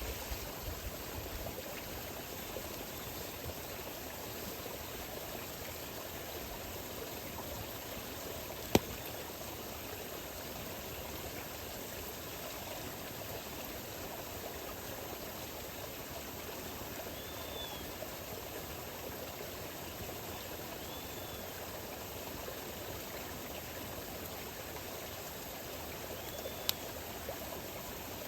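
Steady rushing of flowing water like a stream, with a wood campfire giving a few sharp pops. The loudest pops come about nine seconds in and near the end.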